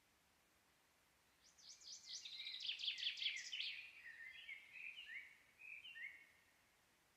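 A songbird sings one long phrase of rapid trills and chirps. It starts about a second and a half in and ends about six seconds in, dropping to shorter, lower notes near its close.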